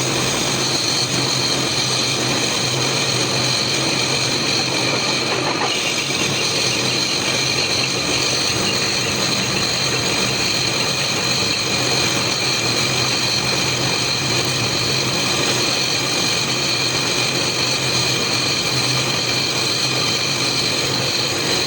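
A machine running steadily, a constant motor hum with a high whine over it.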